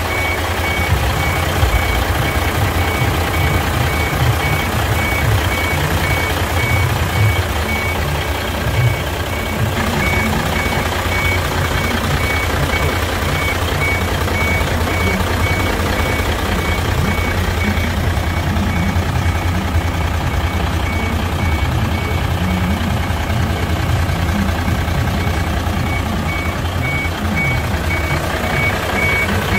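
Truck engine running with a low rumble while a reversing alarm beeps in a steady repeating pattern.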